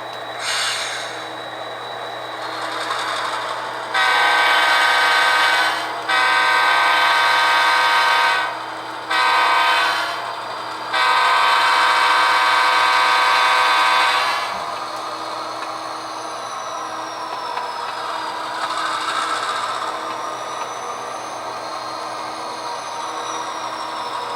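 Sound-equipped HO scale GP38 diesel model sounding its horn through its small speaker: two long blasts, a short one and a long one, the grade-crossing signal. A steady diesel engine sound runs underneath, with a faint wavering whine after the horn.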